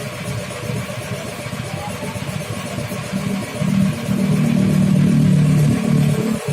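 Bored-up Vespa two-stroke scooter engine running, then revved up about four seconds in and held for a couple of seconds before dropping back.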